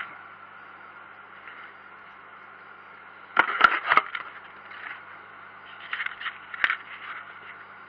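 A few sharp clicks and knocks, a cluster of three or four about three and a half seconds in and a single sharp click near six and a half seconds, over a steady low hiss.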